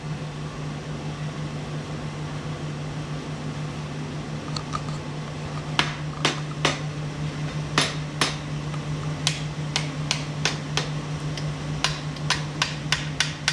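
Hand ratchet clicking on metal in short, irregular strokes, starting about six seconds in and coming faster near the end, as engine main-cap fasteners are tightened by hand rather than with an impact gun. A steady low hum runs under it.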